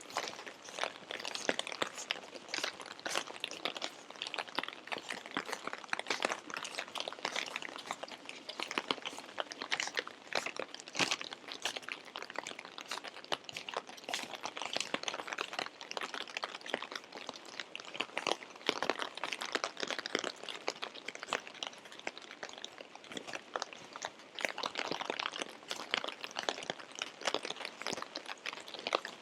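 Rain falling: a dense, irregular crackle of drops striking close by.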